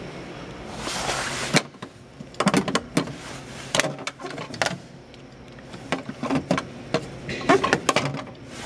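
Parts of a refrigerator freezer being handled: a brief sliding sound, a sharp knock about a second and a half in, then several bursts of clattering knocks.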